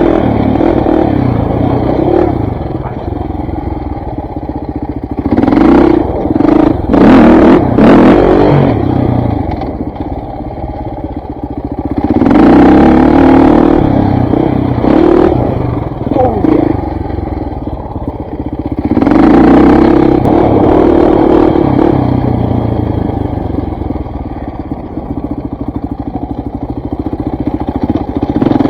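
KTM 400 MXC dirt bike's single-cylinder four-stroke engine being ridden, opening up on the throttle about six, twelve and nineteen seconds in and dropping back between, with a few sharp knocks during the first surge.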